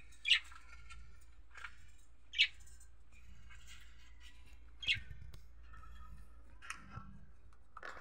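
Short, sharp bird chirps, about five of them spaced a second or two apart, over a faint steady low hum.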